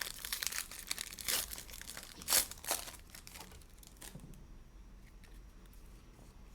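Foil trading-card pack wrapper being torn open and crinkled: a run of crackly rustling with a few louder crackles over the first three seconds, then only faint handling sounds.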